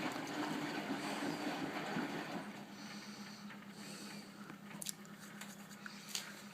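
Bendix 7128 front-loading washing machine in its wash phase: the drum turning the load through the water, stopping about two and a half seconds in, after which a low steady hum and a few faint clicks remain.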